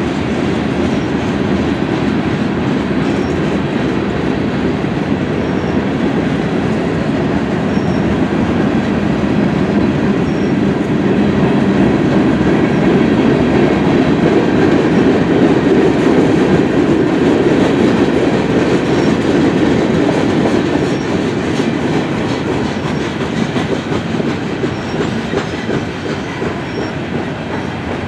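Freight cars of a long train rolling past on the rails: a steady rumble and rattle of wheels, growing somewhat louder midway through and easing off a little near the end. The cars are covered hoppers, a boxcar and then a long string of Norfolk Southern open coal hoppers.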